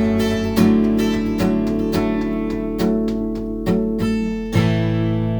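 Outro music: strummed acoustic guitar chords, ending on a held chord that rings out.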